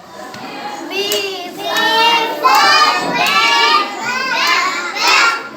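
A group of young children calling out together in high voices, reciting a phonics letter-and-word chant.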